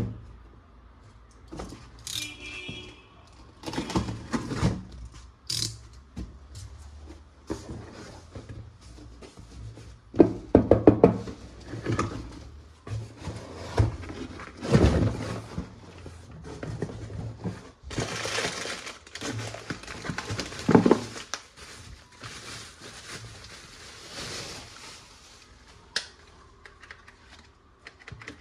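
Plastic toy guns and their packaging being handled and unboxed: irregular knocks, clicks and rustles, with a brief high tone about two seconds in.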